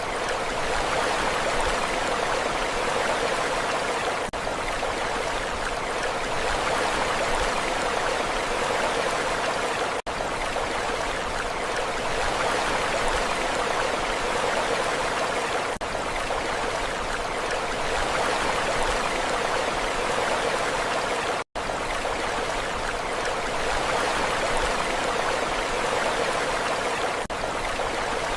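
Steady rushing water, an even hiss with no rise and fall of waves. Brief dips in level come about every six seconds, one of them a moment of silence about two-thirds of the way through.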